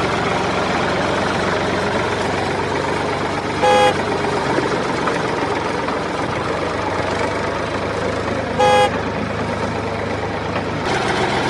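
Mini tractor's small motor running steadily, with two short horn beeps about five seconds apart. The motor's sound shifts a little near the end.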